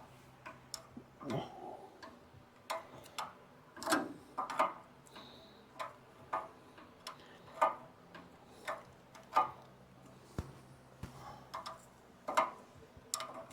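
Metal clicks and clinks of a wrench working a stuck bolt back and forth on a tractor, one sharp click every half second to a second, some in quick pairs.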